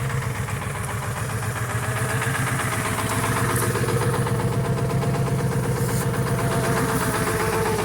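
Ford 7.3-litre Power Stroke V8 turbo-diesel idling steadily just after a cold start, on freshly replaced glow plugs. It gets slightly louder about two to three seconds in.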